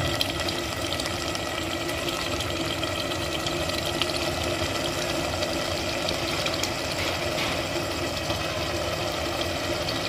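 Pumpkin halwa frying in ghee in a pot, giving a light sizzle and crackle as a steel spoon stirs it. Under it runs a steady mechanical hum.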